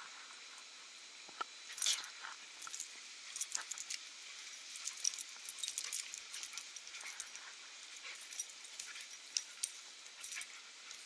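Dogs playing rough together: irregular light jingling and sharp clicks, the loudest about two seconds in and again about five seconds in.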